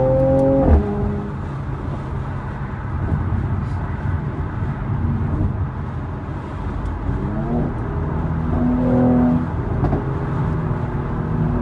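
Mercedes-AMG C43's twin-turbo V6 revving up under hard acceleration; its note cuts off sharply less than a second in. Low engine and road rumble follows, with another short climb in revs around seven to nine seconds.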